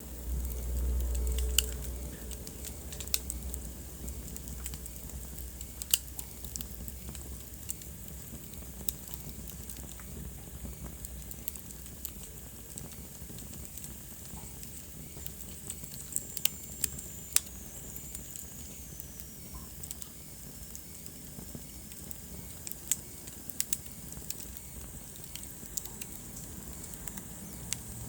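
Wood fire crackling in a fireplace: irregular sharp pops over a steady low burning noise, with a low rumble in the first two seconds. Midway a faint high whistle slowly falls in pitch.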